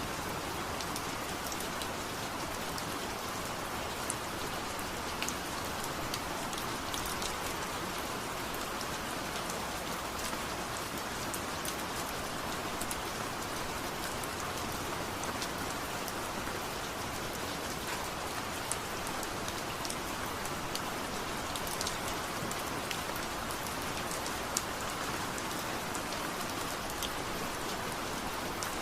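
Steady rain falling, with scattered sharp little drop ticks over an even hiss.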